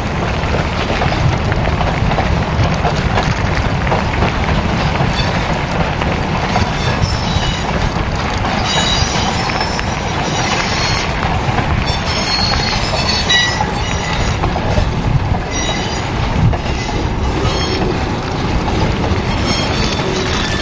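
A short passenger train rolling along the rails, its wheels squealing in thin high tones from about halfway through, over a steady low rumble.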